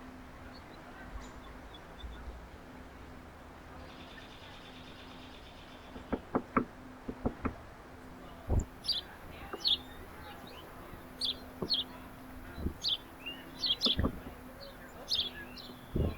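Small songbirds chirping at a backyard feeder: a run of short, high chirps that starts about halfway through. Several sharp knocks come before and among them.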